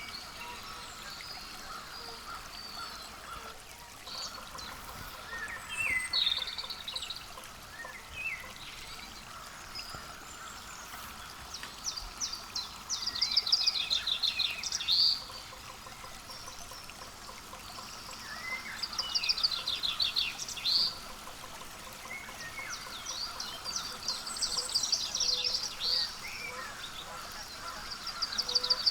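Birds calling in several loud bursts of rapid, chattering high notes, a few seconds apart, over a faint steady background.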